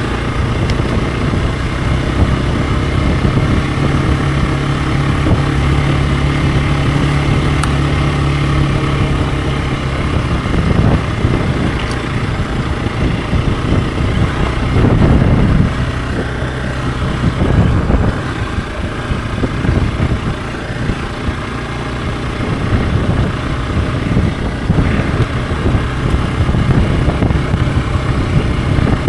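Hero XPulse 200 4V's single-cylinder engine running while the motorcycle is ridden, over a steady rush of noise. The engine note holds steady for the first ten seconds or so, then changes with the throttle, with short surges in revs about halfway through.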